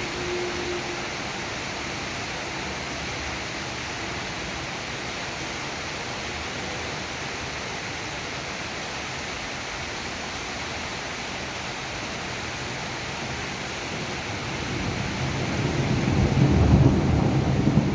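Steady rain falling, with a low rumble of thunder swelling over the last few seconds.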